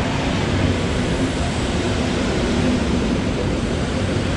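Electric multiple unit rolling into the platform and passing close by: a steady noise of wheels on rail with a faint low hum that comes and goes.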